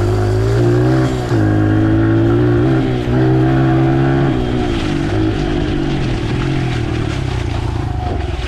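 Dirt bike engine running, its pitch rising and falling with the throttle, then settling to a lower, steadier note about halfway through.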